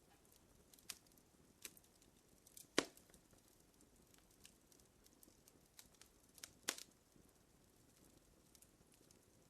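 Wood fire crackling faintly: scattered sharp pops and snaps over a soft hiss, with the two loudest snaps about three seconds in and near seven seconds.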